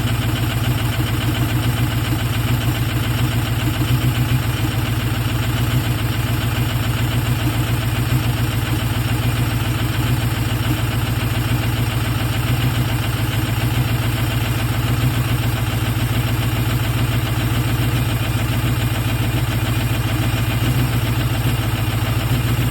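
2004 Ford 6.0 Power Stroke V8 turbo-diesel idling steadily while still cold after a start at −1 °F without the block heater plugged in.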